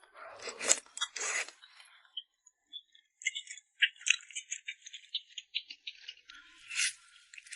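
Eating sounds: two noisy rustles in the first second and a half, then a run of quick, light clicks and scrapes lasting several seconds.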